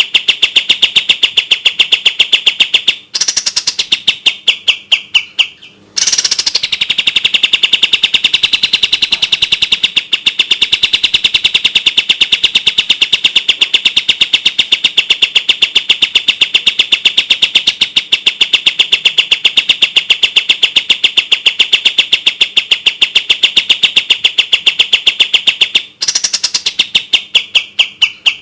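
Kapas tembak song: a fast, even train of clear, sharp notes, about seven a second, with a short break about five and a half seconds in and then a long unbroken run of some twenty seconds.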